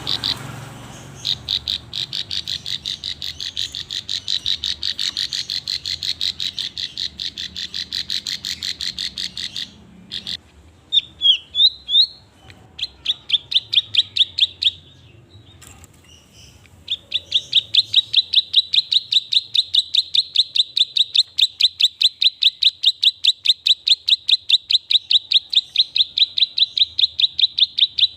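A hand-raised songbird of the kind called klik-klik in Indonesia calling in long rapid runs of sharp, high chirps, about four a second. The runs are broken in the middle by a few sliding notes and a short pause, then start again.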